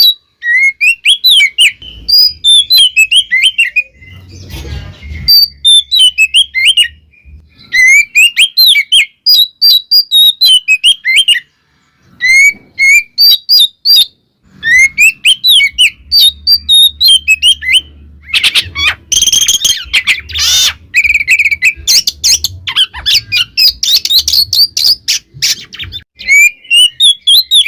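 Oriental magpie-robin (kacer) song: rapid runs of varied sliding whistles and chirps in bursts with short pauses, turning to dense harsh, scratchy chatter partway through. A low rumble sits underneath at times. It is the loud, full song used as a lure to rouse rival male kacer.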